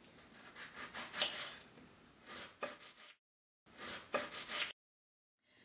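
Knife chopping a sweet onion on a cutting board: scattered knife strokes and scraping. The sound cuts to dead silence twice, briefly.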